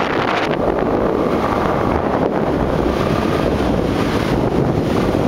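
Wind rushing steadily over the microphone of a moving motorbike, with the bike's running noise under it.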